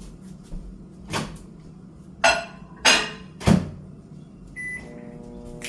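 Microwave oven being used: a few sharp clacks as the door is opened, a dish set in and the door shut. Then a single keypad beep, and the oven starts running with a steady hum.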